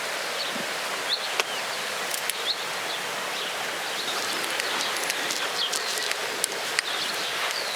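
Outdoor garden ambience: a steady rustling hiss of breeze and leaves, with short bird chirps scattered throughout and a few faint clicks.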